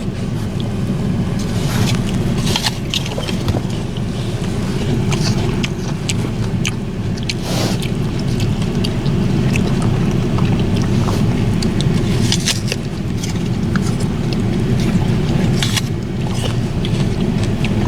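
Crisp crunching and chewing of Honeycrisp apple pieces, in scattered short crackles, over the steady hum of a parked car's air conditioning running.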